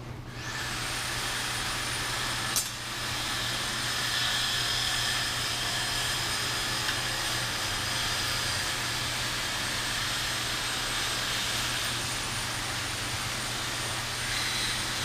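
High-speed rotary grinder spinning up about half a second in, then running steadily with a high whine as it grinds into the top of a factory LS fuel pressure regulator to gut it. A sharp click about two and a half seconds in.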